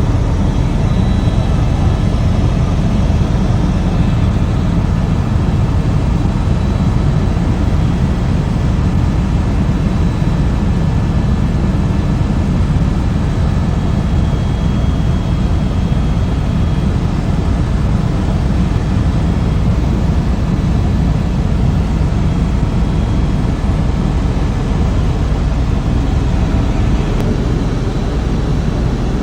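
Helicopter in flight, heard from aboard: a loud, steady low drone of rotor and engine noise.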